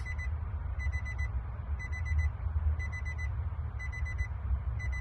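Electronic warning beeper sounding short, high beeps in quick groups of four, repeating about once a second, over a steady low rumble.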